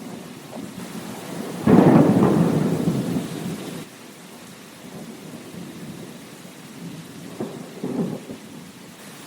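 Steady rain with a clap of thunder that comes in suddenly about a second and a half in, rumbles for about two seconds and cuts off abruptly. Two smaller rumbles follow near the end.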